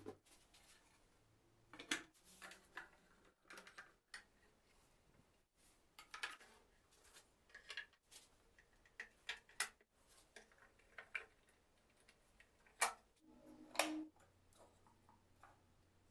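Small wooden model parts clicking and tapping irregularly as they are handled. Two louder knocks come about a second apart near the end.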